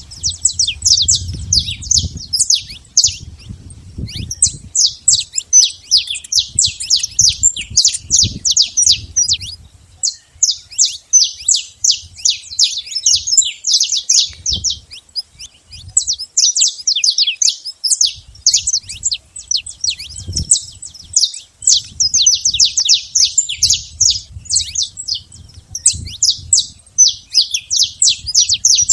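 Saffron finch singing: long runs of quick, high chirps with brief pauses between phrases.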